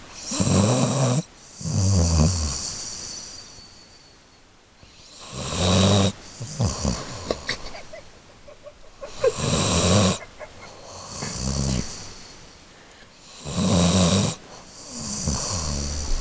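A laika hunting dog snoring in deep sleep, worn out after a long run. Four slow breaths come about four seconds apart, each a louder rasping snore followed by a softer one.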